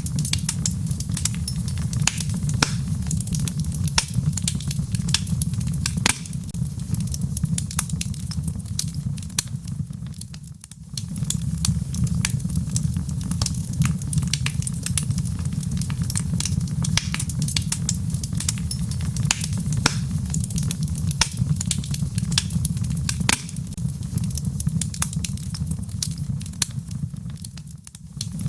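Wood fire of burning logs in a fireplace crackling, with many sharp pops and snaps over a steady low rumble of the flames. The sound dips briefly about ten seconds in and again just before the end.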